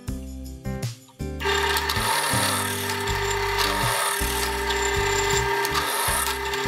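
A power tool working wood, with a steady tone and a rough cutting noise, over background music; it drops away briefly about a second in and then runs steadily.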